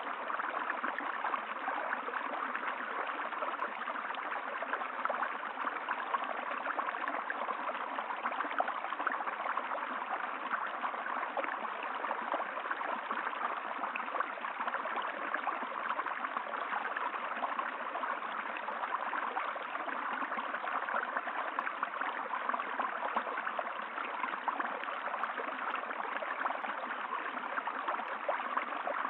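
Running water of a stream, a steady, even flow with fine trickling and gurgling.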